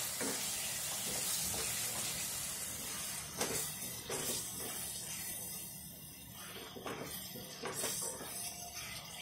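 Thick green masala paste frying in a kadhai: a steady sizzling hiss that fades about halfway, and a wooden spoon stirring and scraping through it in separate strokes from about three seconds in.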